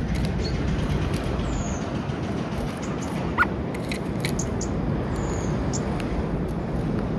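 Birds feeding at a peanut feeder: scattered small clicks and taps of pecking, a couple of brief high chirps, and one sharper tap about three and a half seconds in, over a steady low outdoor rumble.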